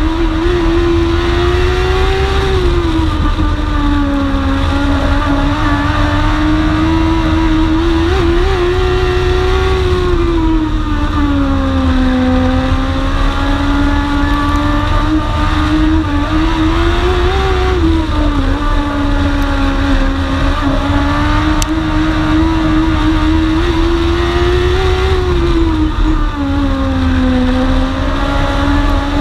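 Dwarf race car engine heard onboard at racing speed, its revs rising and falling in a regular cycle about every seven to eight seconds, with a steady heavy wind rumble on the camera.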